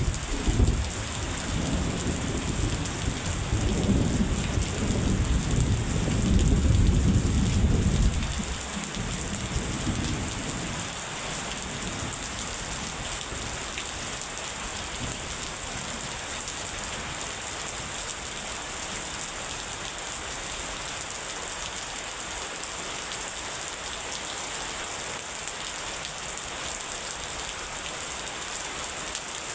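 Steady heavy rain with a long rolling rumble of thunder that dies away about eight to ten seconds in, leaving the rain alone.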